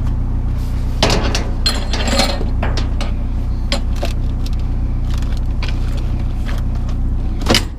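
Discarded scrap being rummaged through: metal and glass pieces clinking and scraping in scattered knocks, the loudest just before the end. Under it runs the steady low hum of a vehicle engine idling.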